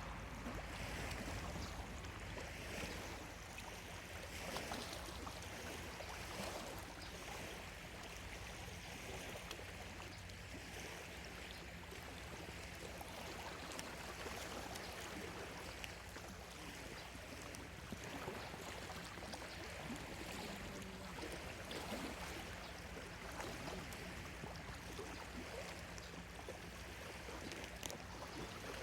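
Small lake waves lapping steadily on the shore of Lake Biwa, a continuous wash with faint little splashes.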